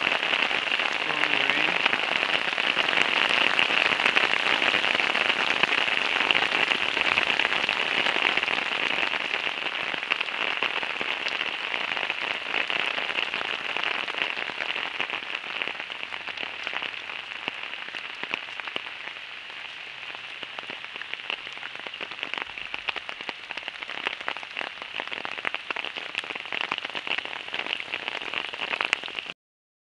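Heavy rain pouring down, a dense hiss of countless drops hitting surfaces, easing a little in the second half. It cuts off suddenly near the end.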